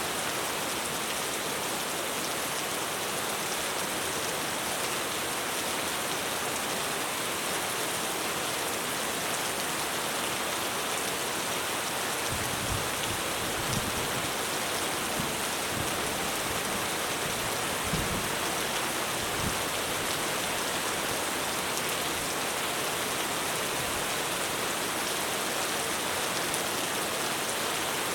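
Heavy rain falling steadily on a roof, a dense even hiss. Several short low thumps come in the middle.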